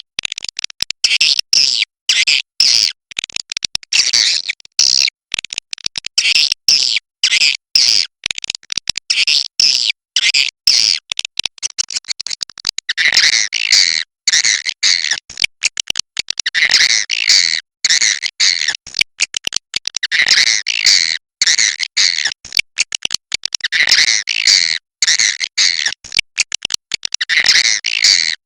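Swiftlets twittering in a dense, choppy stream of high chirps. From about halfway through, a lower, fuller call phrase joins in and recurs every three to four seconds.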